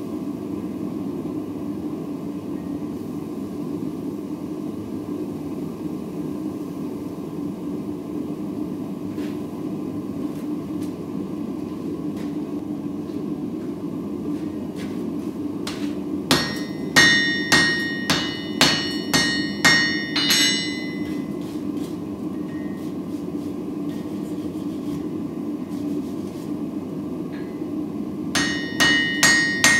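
Hammer blows ringing on hot steel on an anvil as a Damascus billet is forged: a run of about eight strikes, roughly two a second, a little past halfway, and a quicker run starting near the end, over a steady low rush of background noise.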